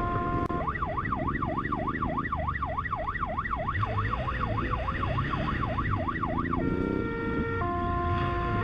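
Police motorcycle siren: a steady tone gives way after about half a second to a fast yelp, sweeping up and down about three times a second for some six seconds. Near the end it switches back to steady tones that step between pitches. A low rumble runs underneath.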